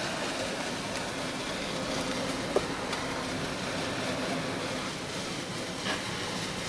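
Belanger Kondor KL2 touchless car wash running over the car, heard from inside the closed cabin: a steady hiss of machinery and spray with a faint low hum, and one sharp click about two and a half seconds in.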